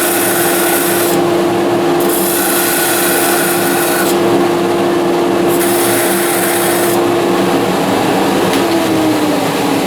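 Woodpeckers parting tool cutting into wood spinning on a lathe at about 1300 rpm, in three scraping passes of one to two seconds each. A steady machine hum from the lathe and dust extractor runs underneath, and its tone slides lower near the end.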